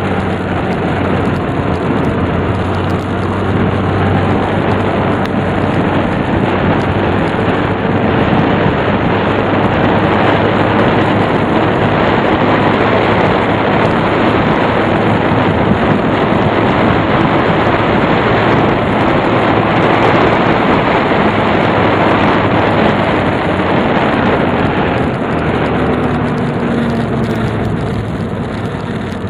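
Tsurugi 150 under way, its engine hum mostly buried under heavy wind rush on the microphone; it eases off slightly near the end.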